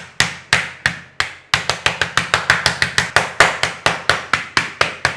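Chicken breast being pounded flat inside a plastic bag: a steady run of sharp, heavy blows, about three a second, that speeds up to about five a second after a second and a half.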